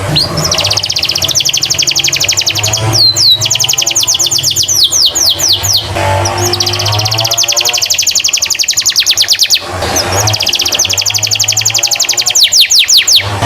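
Domestic canary in full song, singing long, fast, high-pitched trills and rolls. These are broken by runs of quick falling whistled notes, a little after the start, around the middle and near the end.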